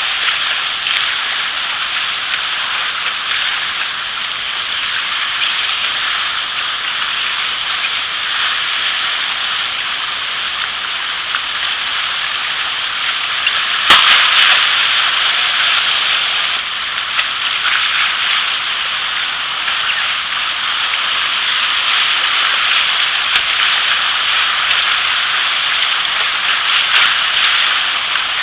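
Kayaking on a fast river: steady rushing, crackling whitewater and splashing. There is one sharp knock about halfway through.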